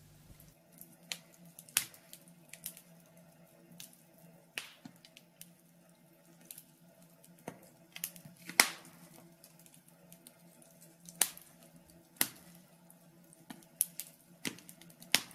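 Wood fire crackling in a fireplace: irregular sharp snaps and pops, one louder pop about eight and a half seconds in, over a faint steady low hum.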